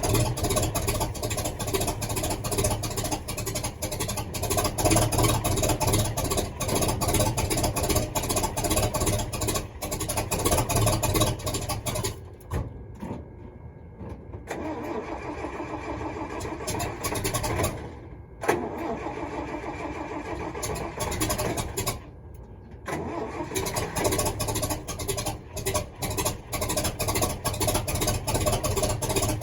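Truck engine running on wood gas, the smoke from a wood fire, with a dense, uneven firing sound. Its level drops away about halfway through, again briefly a little later, and once more before it comes back up.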